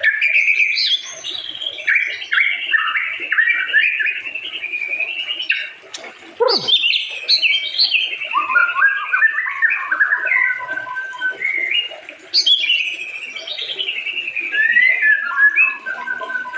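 White-rumped shama singing a long, varied song of rapid whistled notes and trills, in three runs with short breaks about six and twelve seconds in, one of them opening with a steeply falling note.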